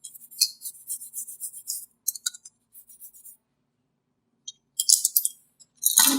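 Crisp, high-pitched clicking and crackling in irregular bursts, like small hard or crinkly objects being handled, with a louder burst near the end.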